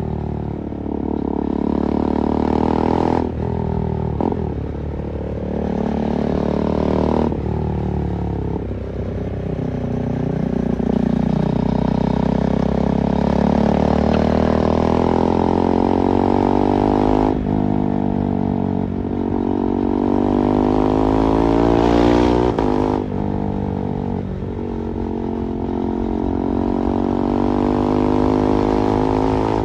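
KTM 390 Duke's single-cylinder engine under way, its pitch climbing as it revs and dropping sharply at each of several gear changes, with a slower fall in pitch as it eases off.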